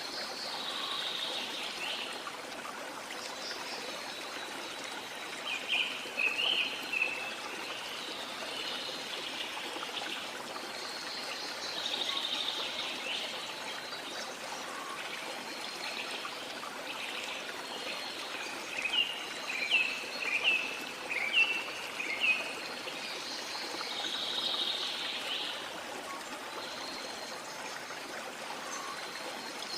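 A river flowing steadily, with birds calling now and then over it, including a quick run of chirps about twenty seconds in.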